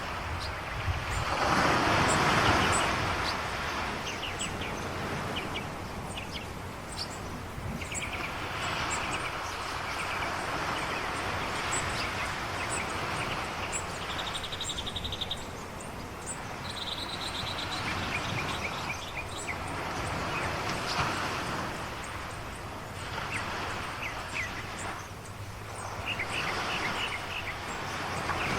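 Ocean waves washing in slow swells, the loudest about two seconds in, with birds chirping throughout and a short buzzy trill twice near the middle.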